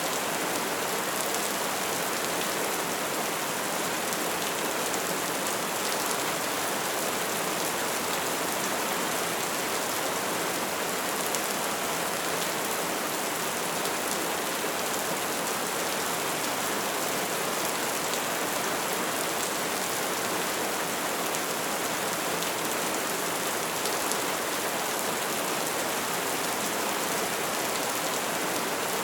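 Bonfire burning with a steady dense crackle and hiss, with small pops scattered through it.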